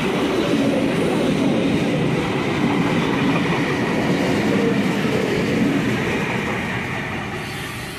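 A V-set double-deck electric intercity train passing slowly through the station under a temporary speed restriction, its wheels and running gear making a steady, loud rumble that eases slightly near the end.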